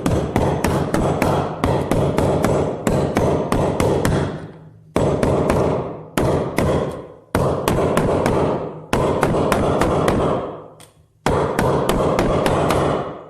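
Hammer blows on an old bearing used as a drift, driving a new bearing into the washing machine drum's bearing seat. Rapid strikes, about three or four a second, come in runs of a few seconds with brief pauses between them.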